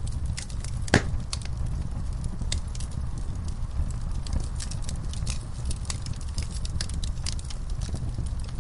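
Fire in a fireplace crackling, with irregular sharp pops over a steady low rumble; one loud pop about a second in.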